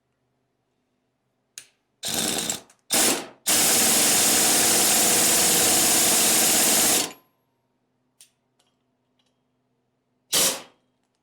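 Power impact wrench hammering as it takes fasteners off an engine: two short bursts, then a steady run of about three and a half seconds, and one more short burst near the end.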